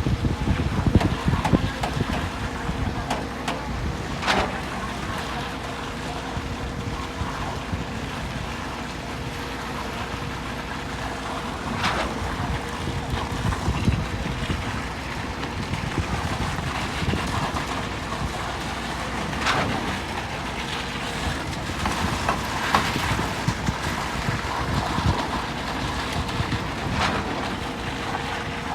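Truck-mounted concrete pump running steadily, with a sharp knock about every seven to eight seconds.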